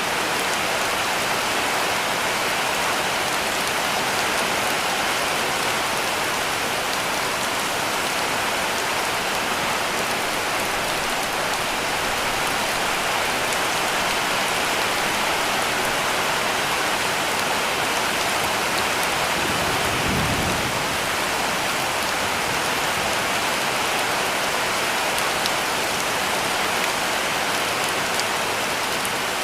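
Heavy rain falling steadily on a cabin roof, an even hiss of drops. A brief low rumble about two-thirds of the way through.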